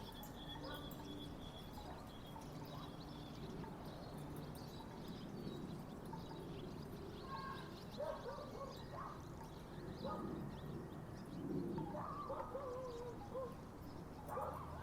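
Backyard ambience: scattered short bird calls, busiest near the end, over a low steady hum.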